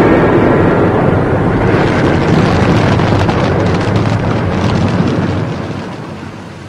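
Mirage volcano show's eruption rumble played over its loudspeakers, with some crackling in the middle, dying away over the last second or so as the eruption ends.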